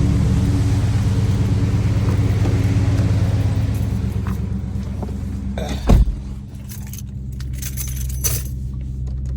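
Dodge Charger Scat Pack's 6.4-litre HEMI V8 running on its stock exhaust with the factory mufflers, a steady low drone that gets gradually quieter. About six seconds in there is a single heavy thump, followed by a few light clicks and jingles as the engine runs on more quietly.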